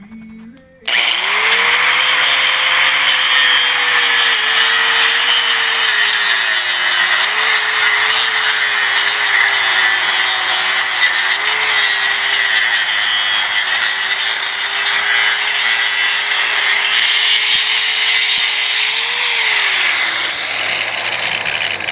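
DeWalt angle grinder with a cutoff wheel, starting up about a second in and running continuously as it cuts through the metal of an air conditioner condenser, then winding down with a falling pitch near the end.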